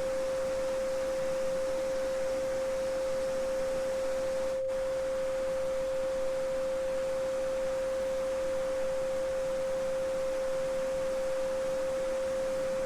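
A steady pure 528 Hz sine tone, the solfeggio frequency, held unchanging over the soft, even rushing of a small babbling stream. The stream sound drops out for an instant about four and a half seconds in while the tone carries on.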